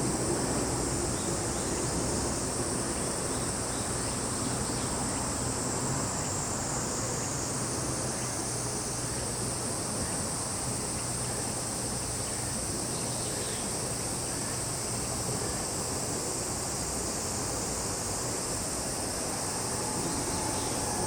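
Chorus of summer insects: a steady, high-pitched shrill drone that does not let up, over a faint low steady hum.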